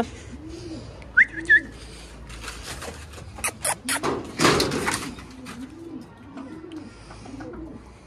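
A bird cooing over and over in low, arching calls. There is a short high chirp just after a second in, and a clatter of a metal cage hatch being opened around four seconds in.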